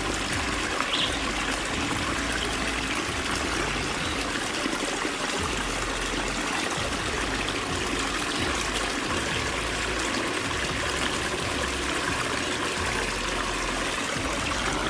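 Stream water pouring and trickling steadily over rocks, a strong flow for a dry spell with no rain.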